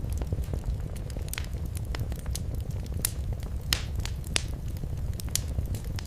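Wood fire in a fireplace crackling: a steady low rumble of the flames with irregular sharp pops and snaps, two louder pops near the middle.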